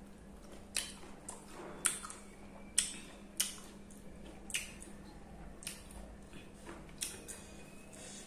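Close-miked wet mouth sounds of someone chewing sour, chilli-hot fruit mash: sharp lip and tongue smacks roughly once a second.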